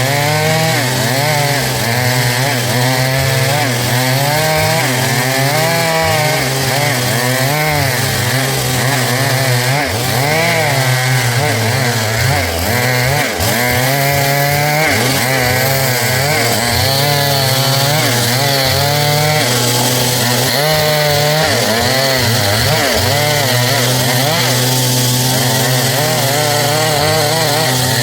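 Two-stroke Stihl MS 382 chainsaw running at high revs while cutting into a dry log, its pitch wavering constantly as the chain bites and frees.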